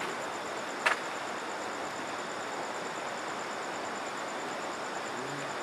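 Steady rushing of a river, with an insect's high, fast-pulsing trill running over it. A single sharp click about a second in.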